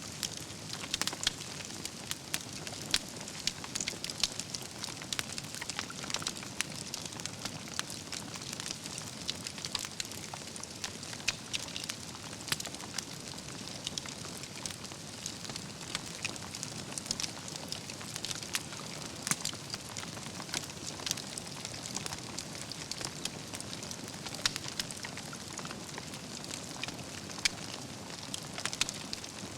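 Wood campfire burning: a steady hiss of flames with frequent irregular crackles and the occasional louder pop from the logs.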